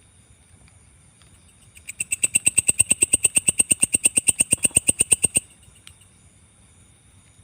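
Belalang kecek katydid calling: a fast, even run of sharp chirps, about nine a second, that starts about two seconds in and stops abruptly after some three and a half seconds, over a steady high-pitched insect hum.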